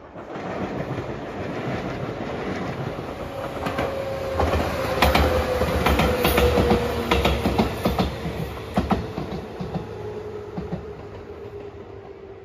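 A JR 213 series electric train passing close by: its rumble builds, peaks in the middle, then fades as it moves away. Its wheels clack over rail joints as it passes, and a whine slowly falls in pitch.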